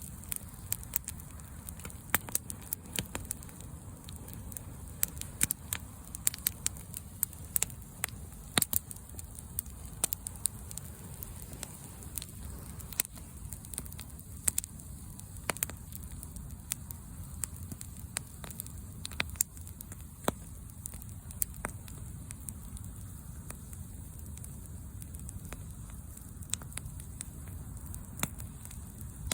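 Wood bonfire crackling, with frequent sharp pops over a steady low rumble; the pops come thicker in the first half and thin out later.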